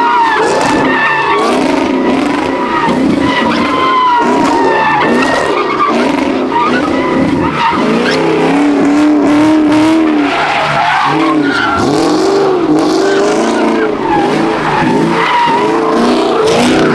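Car tyres squealing in long wavering screeches over a running, revving car engine.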